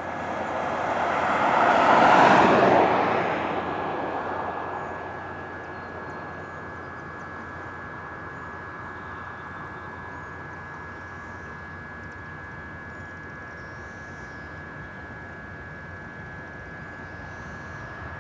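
A vehicle passing by: a rising and falling rush that peaks about two seconds in and fades over the next few seconds, leaving a steady low background with a faint constant high tone.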